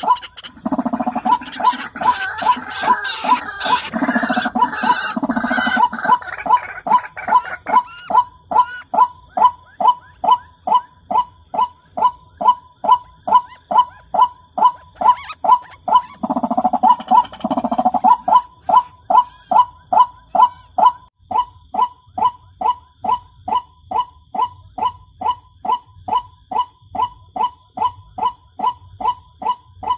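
White-breasted waterhen calls: a monotonous call repeated about twice a second, with louder raucous bursts of calling near the start and again about halfway through. A thin high whine comes in about two-thirds of the way in.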